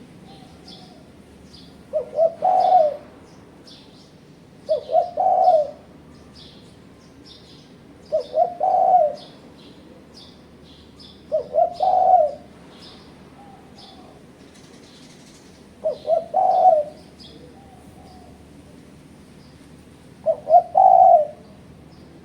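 Spotted dove (tekukur) cooing: six phrases a few seconds apart, each two short notes followed by a longer one. Faint high chirping of small birds runs underneath.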